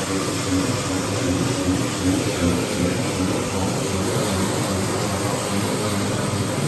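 A steady mechanical drone from an engine or motor, holding an even pitch.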